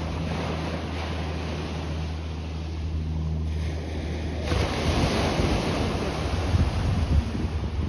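Ocean surf washing in, with wind buffeting the microphone; it grows louder and gustier about halfway through. A low steady hum sits under it in the first half.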